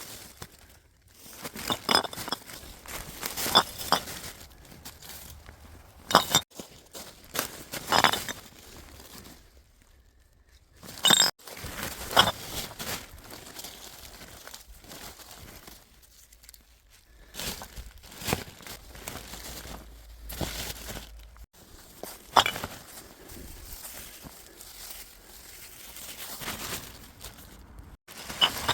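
Litter being picked up and handled: irregular clinks and clatters of bottles and cans knocking together, with crinkling and crunching of plastic and debris, in separate short stretches.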